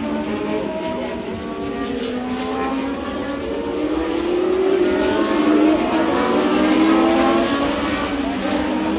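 Historic Formula One cars from the 1970s and early 1980s racing past at high revs, several engine notes overlapping and sliding up and down in pitch as the cars go by, a little louder past the middle.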